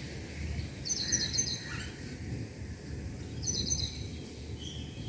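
A songbird repeating the same short, high, chirpy phrase twice, about a second in and again past the middle, over a steady low outdoor rumble.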